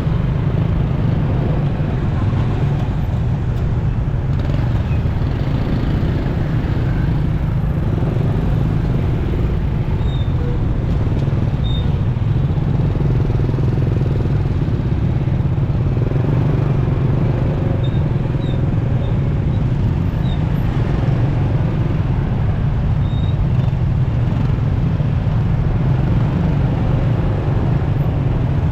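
Onboard sound of a motorcycle riding through city traffic: a steady low rumble of engine and wind noise that keeps an even level throughout.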